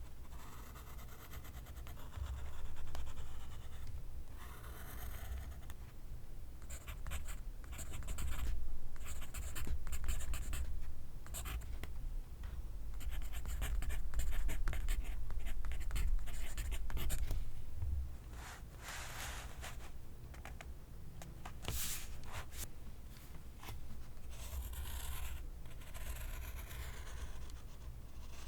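Pencil writing on paper: a steady run of short scratching strokes, some quick and clustered, others longer.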